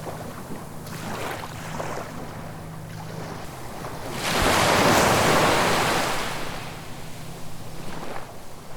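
Ocean waves breaking on the shore. One big wave surges in and washes up about halfway through, the loudest moment, with smaller splashes before and after.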